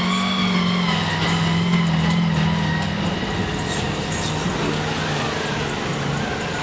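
Mud truck engine running at steady high revs, then easing off and turning uneven about three seconds in.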